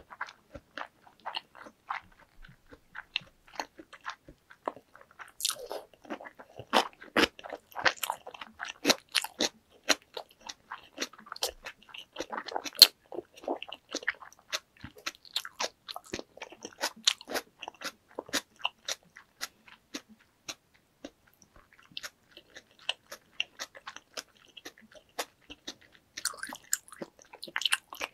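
Close-miked chewing of a mouthful of raw salmon sushi: wet mouth clicks and smacks, several a second, with a short lull about two-thirds through.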